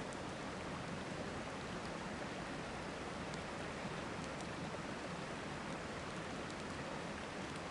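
Steady rush of a river flowing, with a few faint crackles from a campfire.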